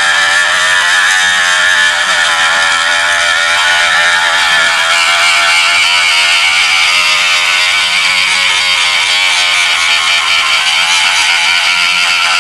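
High-speed rotary tool with a cut-off disc running in a steady high whine as it grinds a plastic nylon radiator tank, roughing up the surface around a crack to prepare it for epoxy.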